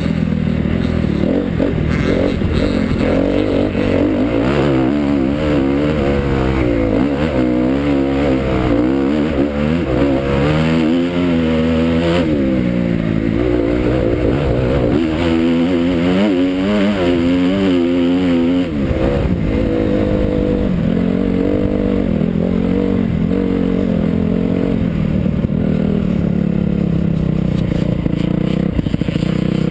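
Motocross bike engine revving hard and easing off again and again as it is ridden round the track, its pitch climbing and dropping every second or so.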